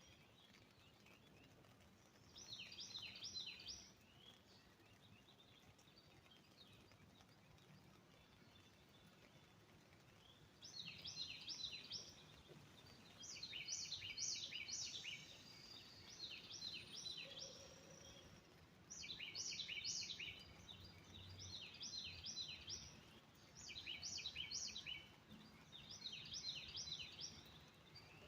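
A songbird singing phrases of quick, rapidly repeated downward-slurred chirps. It sings one phrase about three seconds in, then after a pause sings phrase after phrase every second or two. Behind it is only faint background hiss, with no rain to be heard.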